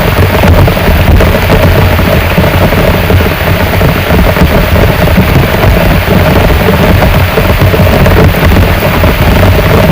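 Heavy rain falling steadily: a loud, dense, unbroken hiss with a strong low rumble beneath it.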